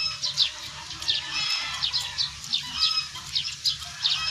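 Small birds chirping rapidly and repeatedly, several short high chirps a second, over a low steady rumble.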